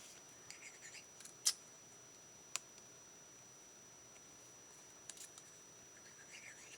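Scissors snipping cardstock scraps: a few sharp clicks, the loudest about a second and a half in and another about a second later.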